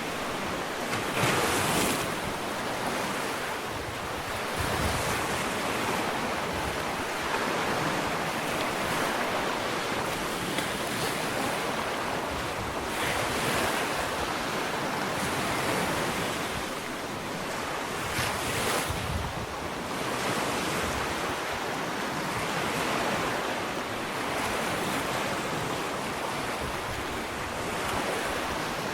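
Small ocean waves breaking and washing up a sandy shore, a continuous surf rush that swells every few seconds as each wave breaks.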